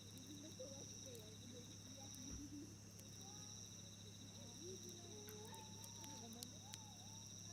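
Faint night ambience: insects trill steadily in two high, pulsing tones, with a few sharp crackles from the wood fire and faint distant voices.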